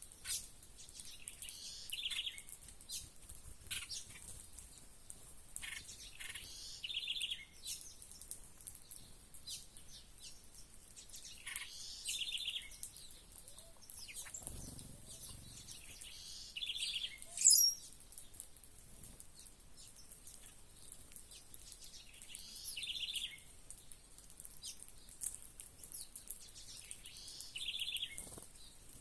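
Small songbirds calling and chirping, with one short rapid trill repeated about every five seconds and a single loud, sharp high call a little past the middle.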